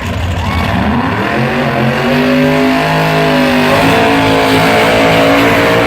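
Drag-race car's engine revving: its pitch climbs over the first two seconds, then holds at high revs with small rises and dips.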